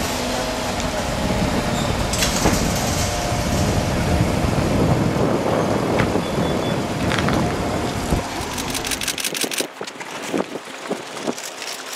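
Steady street and vehicle noise that falls away about nine seconds in, with a quick run of sharp clicks around the drop.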